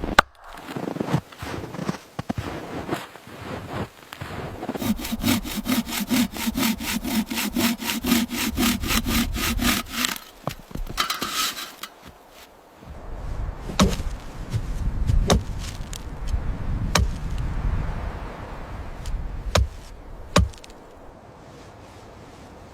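Wood being sawn by hand: a few rough strokes, then a fast, even run of sawing strokes for about five seconds. After a short pause come several single sharp knocks a second or two apart.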